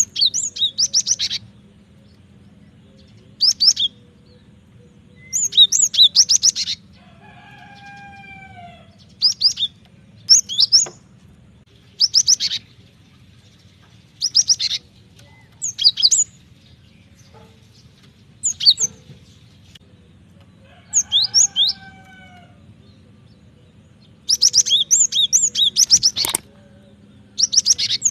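Cinereous tit (gelatik batu) singing: short bursts of rapid, high chirping notes, about a second each, repeated every two seconds or so. Twice a lower, falling whistled note is heard, over a faint steady hum.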